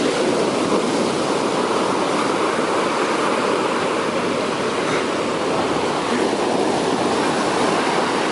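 Large sea waves breaking and washing up the beach: a loud, steady rush of surf.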